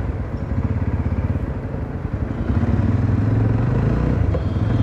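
Jawa 42 motorcycle's single-cylinder engine running under way, its exhaust note getting louder and steadier about halfway through.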